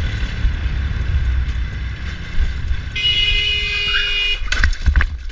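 Vehicle horn held in one long steady blast, with a second, louder horn note joining about three seconds in, over a low rumble of engine and wind. Both stop a little before the end, followed by a few sharp knocks.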